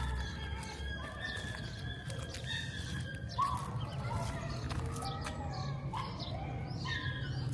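Outdoor city ambience: a low steady rumble with birds calling over it. Held, high calls come first, then short chirps repeating from about halfway through.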